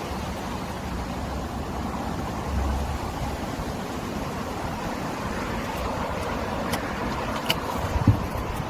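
Road traffic going past, with wind rumbling on the microphone and a few light clicks.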